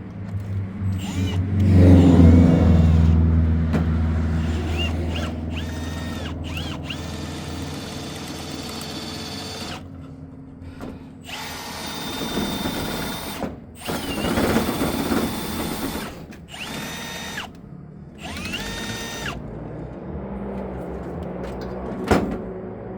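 Electric drill running in several short bursts, its motor whine rising at each trigger pull and stopping between them. A heavier low hum is loudest about two seconds in, and there is a single sharp knock near the end.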